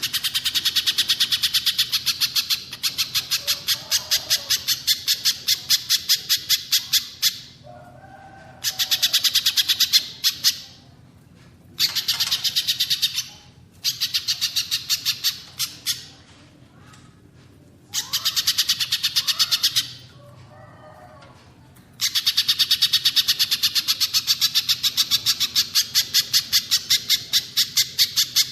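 Recorded song of little spiderhunter and cililin birds: long runs of rapid, sharp, high chips, about ten a second, broken by pauses of a second or two. Softer, lower warbling notes sound during the pauses.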